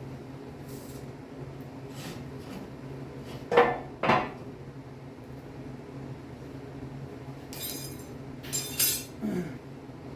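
Metal clanking in a garage: two sharp ringing clanks of steel parts or tools knocked together, then a short bout of metallic rattling and scraping near the end, over a steady low hum.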